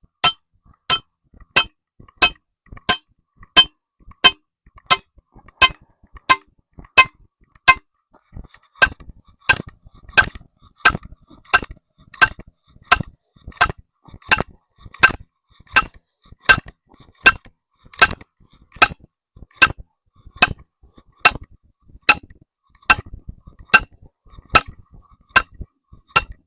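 Hammer strikes driving a steel trap stake into hard, rocky ground: sharp ringing metal-on-metal blows at an even pace of about three every two seconds.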